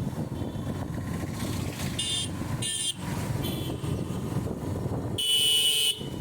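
Motorcycle ride with a steady rumble of engine and road, broken by a few short vehicle horn toots about two to three seconds in and a longer, louder horn blast near the end.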